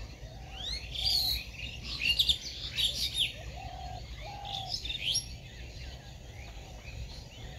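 Small birds chirping: a run of short, quick, rising chirps through the first five seconds, thinning out after that.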